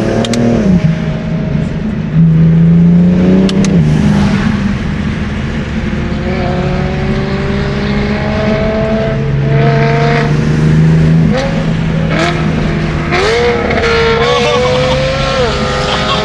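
Car engine pulling hard under acceleration, its pitch climbing steadily through each gear and dropping sharply at each of several upshifts.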